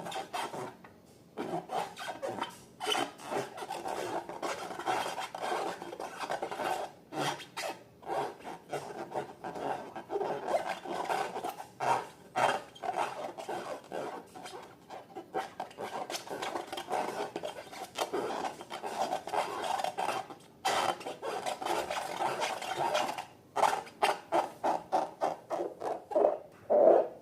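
Slime being mixed and kneaded by hand: a quick, irregular run of sticky squishing and rubbing strokes, with a few brief pauses. The strokes grow louder and faster near the end.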